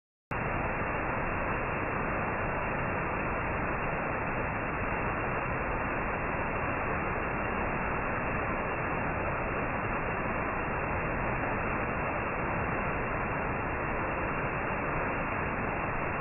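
A steady, even hiss like white noise that starts abruptly out of silence about a third of a second in and holds at one level, with no tones, knocks or changes.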